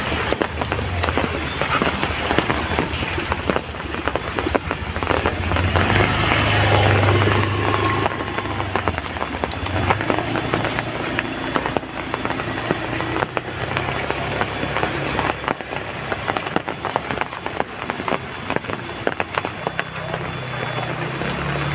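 Heavy rain falling steadily, a dense crackle of drops striking a hard surface. A low rumble swells about six seconds in and fades.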